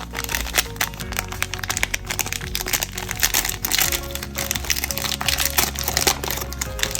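Plastic wrappers of trading card packs crinkling and crackling as they are torn open and handled, over background music.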